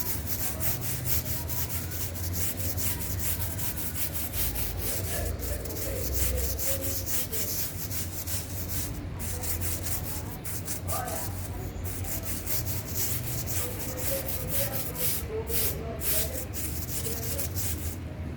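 A large scrubbing brush worked fast back and forth over a soaped fan part, a continuous scratchy scrubbing in rapid strokes.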